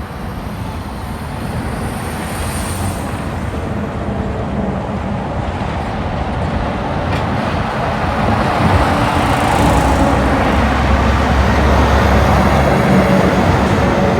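Road traffic with a heavy diesel truck approaching, its engine rumble and tyre noise growing louder and peaking in the second half.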